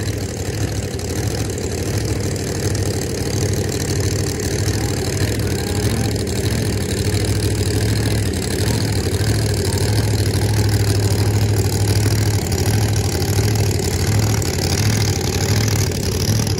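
Supercharged Hemi V8 of a Dodge Challenger Redeye Hellcat idling with a steady, throbbing note as the car backs up after its burnout, growing a little louder as it nears.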